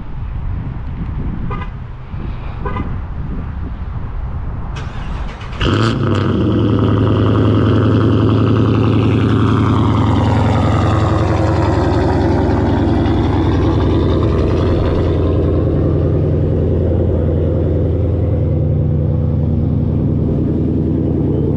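A 5.7 Hemi V8 fires up on a cold start about five and a half seconds in, then settles into a loud, steady fast idle with its exhaust running strongly.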